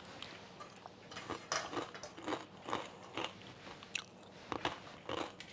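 Someone chewing a piece of crispy fried chicken batter, a run of crisp crunches about twice a second.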